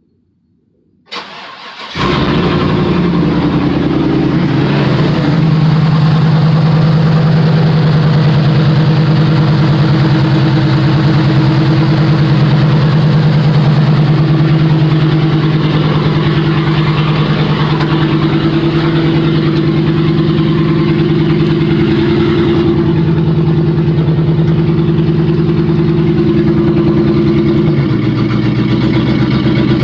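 A 5.3-litre LS V8 swapped into a pickup cranks briefly and catches about two seconds in, then runs loud and steady without a finished exhaust. Its idle note drops slightly near the end.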